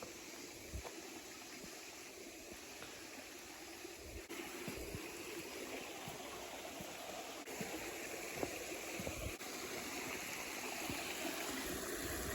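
Creek water running and trickling, growing gradually louder, with a few short low bumps.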